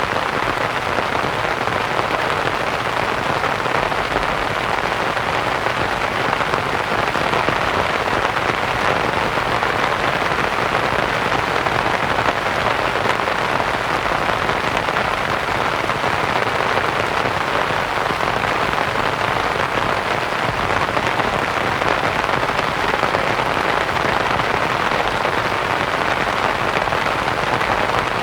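Rain pattering on a canvas tent, blended with soft white noise into an even, unbroken hiss.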